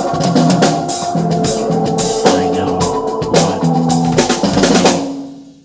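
Acoustic drum kit played along with a rock song's backing track, with kick, snare and cymbal hits over the song's chords. The music fades out near the end.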